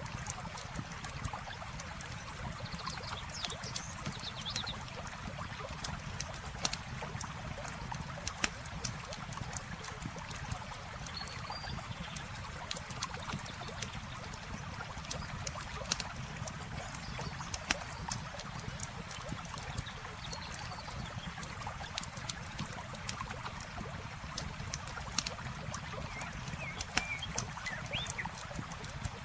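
Campfire crackling with frequent sharp pops over the steady sound of flowing water, and a few faint high chirps now and then.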